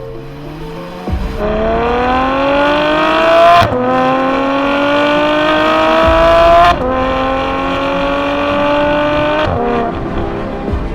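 Ferrari F12 Berlinetta's 6.3-litre V12 accelerating under load. Its pitch climbs, drops suddenly at an upshift, climbs again through a second upshift, then holds steady before easing off near the end.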